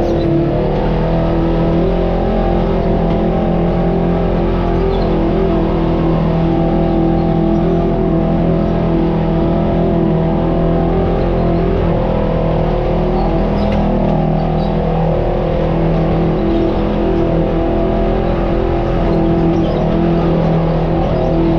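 Off-road vehicle's engine running at a fairly steady speed with little change in pitch, as it drives along a trail.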